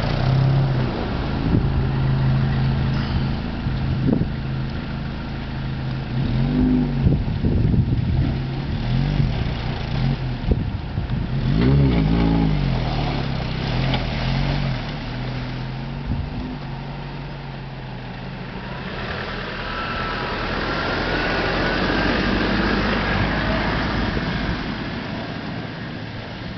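Land Rover Defender engine running off-road, revving up twice, about 6 and 12 seconds in. Later the engine note drops back and a steady rushing noise rises.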